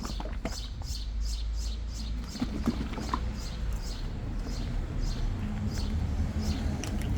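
A bird calling a rapid run of short, high, falling chirps, about two or three a second, over a steady low hum.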